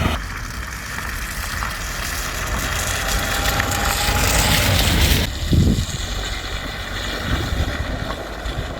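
Wind rumbling on the microphone over a steady hiss, with the hiss changing abruptly about five seconds in.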